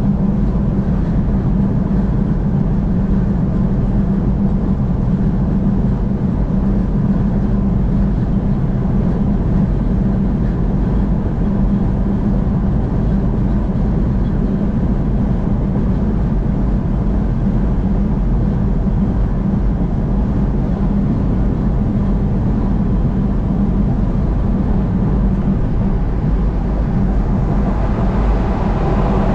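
Steady road noise of a car driving on a freeway: tyre and engine drone, even throughout, heaviest in the low end.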